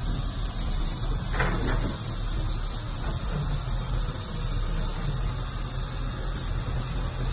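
Crawler excavator's Cummins diesel engine running steadily, with a constant low rumble and hiss. A brief falling squeak comes about a second and a half in.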